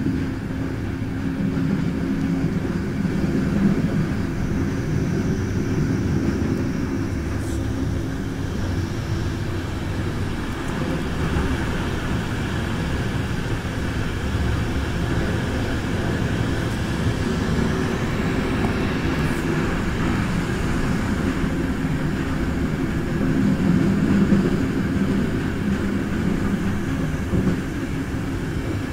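Electric passenger train running along a mountain line, heard from its rear door: a steady rumble with the clatter of wheels on the rails.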